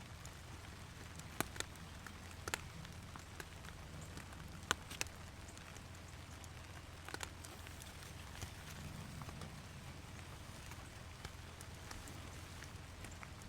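Steady rain with irregular sharp ticks of single heavy drops landing, a few of them loud.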